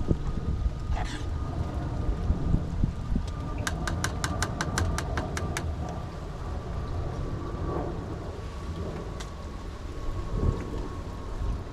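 Steady rain with a heavy low rumble. In the middle comes a quick, evenly spaced run of about ten clicks.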